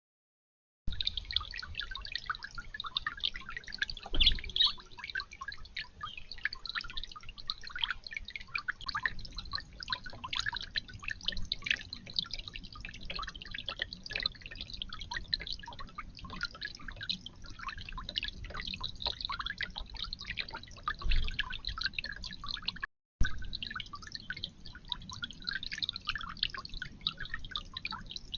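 Water steadily dripping and trickling in a garden bird-bath fountain, a busy patter of fine drips, with a low bump about four seconds in and another near the end.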